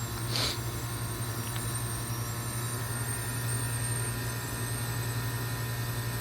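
2005 York Olympian (Latitude 10) heat pump outdoor unit running with a steady low hum and a faint high whine, around a defrost cycle. A short hiss sounds about half a second in.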